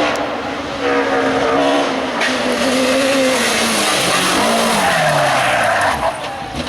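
Race car engine at high revs on a hill climb course, with a brief break in the note about a second in, then the engine note falling steadily in pitch over the last few seconds.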